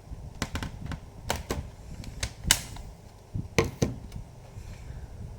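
Irregular sharp plastic clicks and taps of hands on a laptop's case and buttons, about eight in all, the loudest about two and a half seconds in and two more close together near three and a half seconds, as the laptop is handled while it fails to power on.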